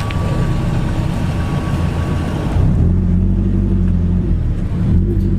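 Lotus Elise engine running through a Larini aftermarket exhaust, heard from inside the car's cramped cabin at low speed. It gives a steady low drone whose note steps up a little about halfway through.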